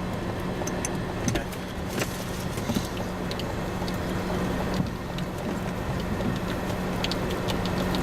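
Steady engine and road hum inside a car's cabin, with scattered light ticks of raindrops hitting the car.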